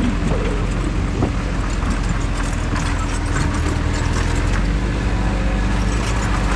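Crawler bulldozer's diesel engine running steadily under work, with scattered metallic clanks from its steel tracks.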